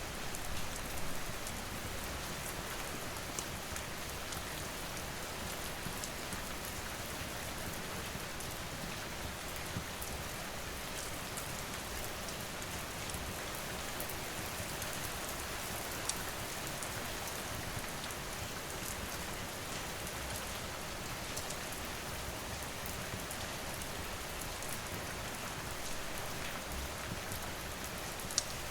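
Steady rain falling, with a few sharp pops of a crackling wood fire now and then, one near the end.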